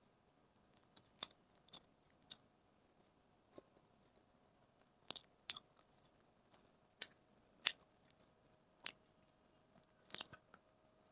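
A person chewing a bite of chicken burger: a string of short, sharp mouth clicks at an uneven pace, with a quick cluster of them near the end.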